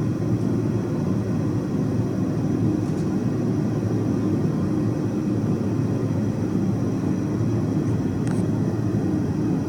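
Blacksmith's forge running with a steady low roar as a steel bar heats through to an even heat for twisting.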